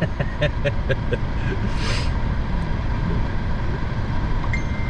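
Steady low rumble of a car driving on the road, with a few light clicks in the first second and a short hiss about two seconds in.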